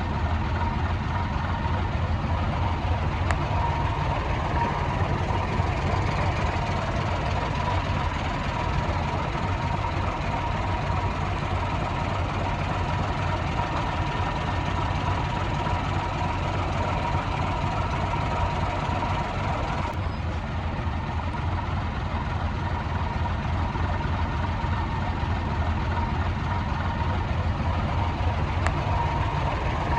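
Heavy diesel earthmoving machinery running steadily at a constant engine speed: a low, unchanging rumble with a steady high whine above it.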